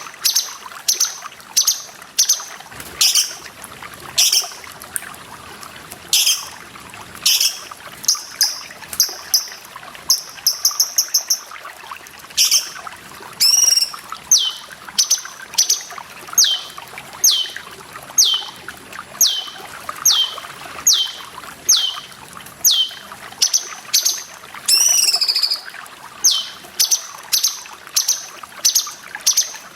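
A cucak cungkok calling over and over, about once a second: sharp high notes that slide steeply downward, with a quick run of rapid notes about ten seconds in. Under the calls runs a steady trickle of water.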